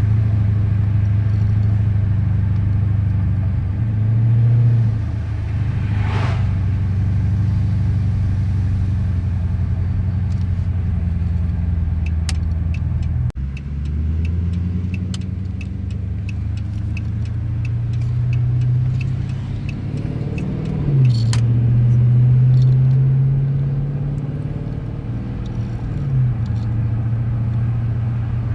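2013 Dodge Charger R/T engine running while driving, a steady drone whose revs rise and fall briefly a few times. A regular light ticking runs for a few seconds midway.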